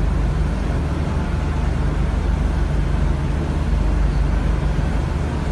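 A ship's engine running with a steady low drone, under a constant rushing noise.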